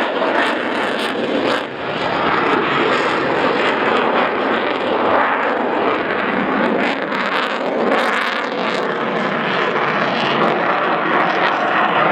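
Eurofighter Typhoon's two EJ200 jet engines at high thrust in a tight minimum-radius turn: a loud, steady jet roar with a short dip about a second and a half in.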